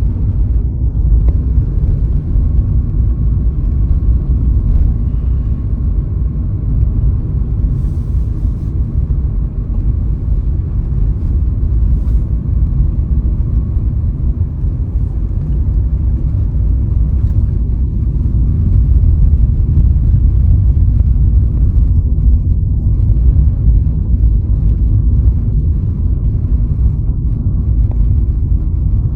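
Steady low rumble of a car driving along a road, engine and tyre noise running continuously.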